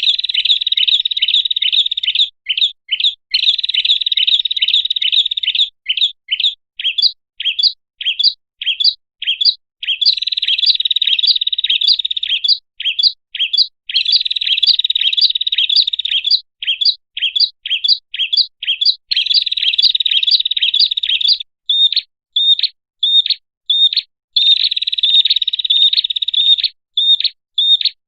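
Prinia (prenjak) song played as a bird-lure call recording: fast runs of sharp repeated chirps alternating with dense trills lasting about two seconds, several times over.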